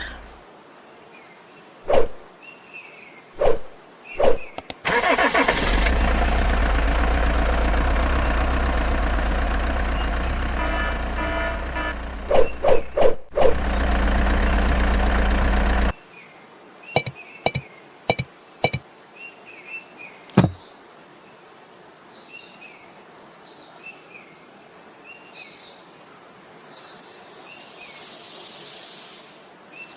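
A few sharp clicks, then an engine running steadily for about ten seconds before cutting off suddenly. After that, birds chirp, with a hiss that swells and fades near the end.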